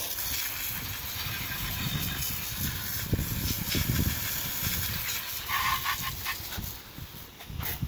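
Garden hose on a jet nozzle spraying water over a dirt bike engine, rinsing off engine degreaser, as a steady hiss of spray. Wind rumbles unevenly on the microphone.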